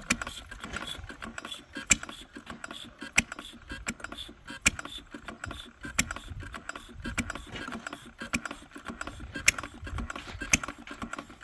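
Henry Ford 1893-type single-cylinder gasoline engine running unevenly: a fast clatter of its moving parts, broken by sharp firing pops about every second or so at irregular spacing, with one longer gap between pops.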